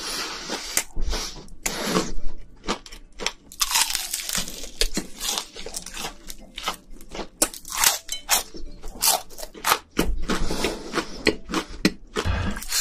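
Close-miked chewing of crispy deep-fried battered shrimp: a dense, irregular run of crunches and crackles, several a second.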